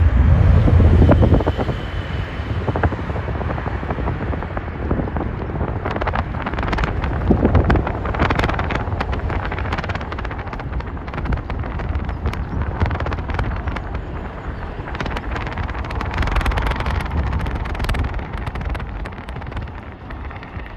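Jet airliner taking off: a loud low engine rumble with heavy wind buffeting on the microphone, easing slightly near the end.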